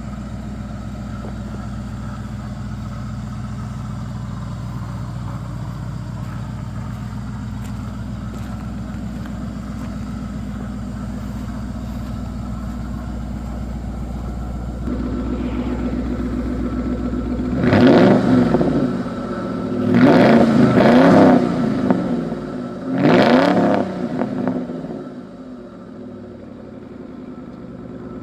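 Lincoln car engine running steadily at idle, then revved three times, each rev rising and falling in pitch, before settling back to a quieter idle.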